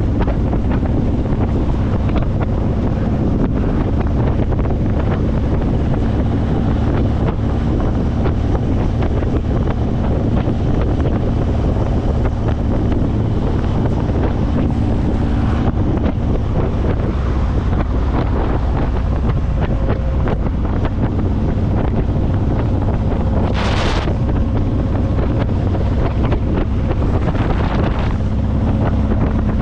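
Wind rushing over the microphone on a moving motorcycle, over the steady running of a Honda VTX1800's 1800cc V-twin through aftermarket Vance & Hines pipes. A short louder rush of noise comes a little past the middle.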